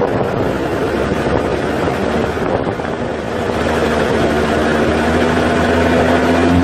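Off-road 4x4's engine running steadily with a low rumble, growing louder about halfway through.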